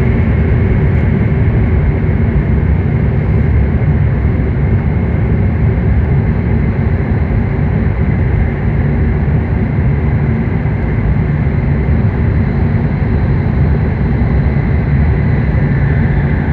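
Steady running noise of a W7 series Shinkansen at speed, heard inside the passenger cabin: a heavy low rumble with a faint high whine over it.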